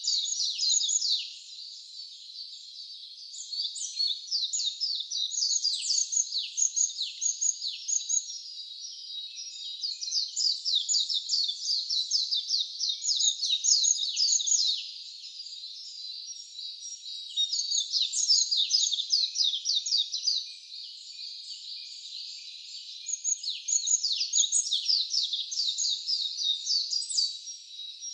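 Wild songbirds chirping and singing in dense bouts of rapid, high, downward-slurred notes, with short lulls every several seconds.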